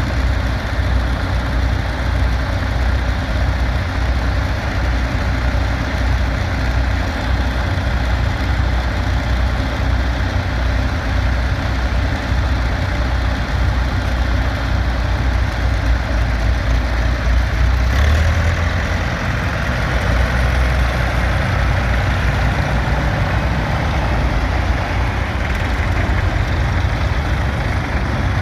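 Vintage tractor engines running steadily, the deep engine note shifting about eighteen seconds in.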